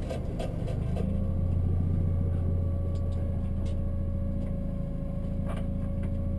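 Fiat Punto 1.8 rally car's four-cylinder engine running steadily at low, constant revs, heard from inside the cabin. There is a faint steady whine and a few light clicks.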